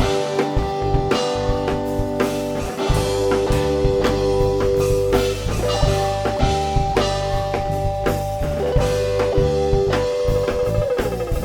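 Live rock band playing an instrumental passage with electric guitar, bass and drum kit, long held guitar notes over a steady beat.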